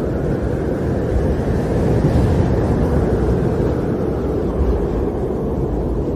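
Storm wind blowing with a steady low roar, swelling a little about two seconds in.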